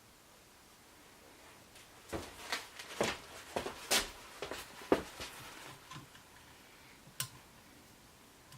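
A quick run of light clicks and knocks, then one more a couple of seconds later, from pump parts and hand tools being handled while the power steering pump is taken apart.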